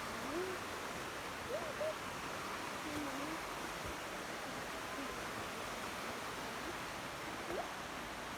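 Steady rush of running water, an even hiss with no break. A few faint, short, wavering pitched sounds sit over it.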